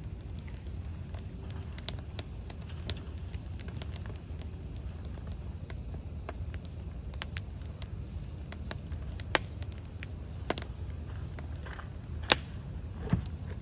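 Campfire of burning logs crackling, with sharp pops about nine, ten and a half, twelve and thirteen seconds in, over a low rumble. Crickets chirp steadily behind it in a high, continuous trill.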